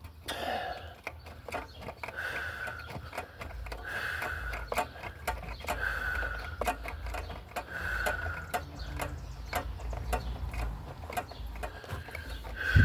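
Steady clicking from a wrench or socket working the spark plug out of a small mower engine, several clicks a second, with a short high squeak repeating about every two seconds.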